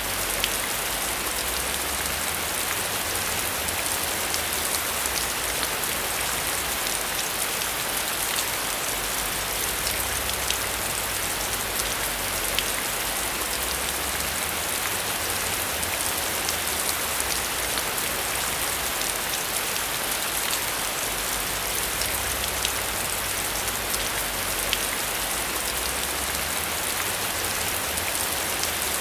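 Heavy rain falling steadily on a metal roof, with many sharp ticks of single drops through the even hiss.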